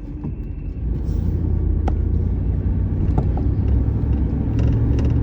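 A car driving: a steady low rumble of engine and road noise that grows louder about a second in.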